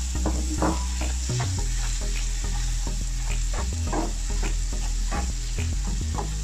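Diced potatoes, onion and tomato sizzling in hot oil in a non-stick frying pan. A spatula scrapes the pan at an irregular pace as it stirs them.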